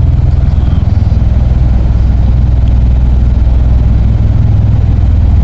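V-22 Osprey tiltrotors running at ground idle, a steady, loud low rumble, with the power not yet brought up for takeoff.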